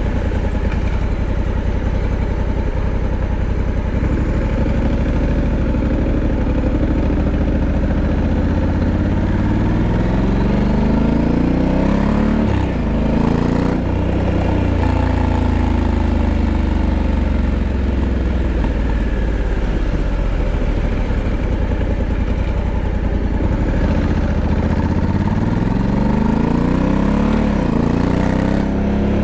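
Honda Africa Twin 1100's parallel-twin engine pulling under way. Its note rises with the revs, drops sharply about midway, then climbs and drops again near the end.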